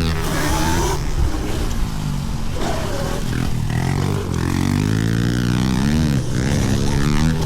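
Several pit bike engines running together, revving up and down with overlapping rising and falling pitches.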